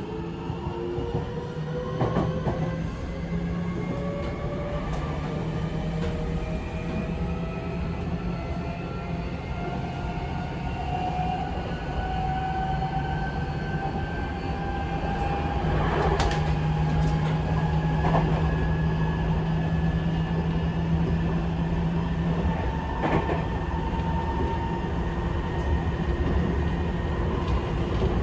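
Running sound inside a Seibu 6000 series train with a Mitsubishi SiC-VVVF inverter, accelerating: the traction motor and inverter whine climbs steadily in pitch over a low running hum, with a few rail-joint clacks.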